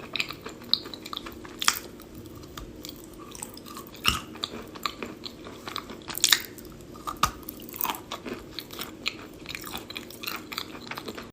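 A person chewing pieces of eating chalk softened in hot water, close to the microphone: irregular crunches and small wet clicks, a few sharper bites among them, over a steady low hum.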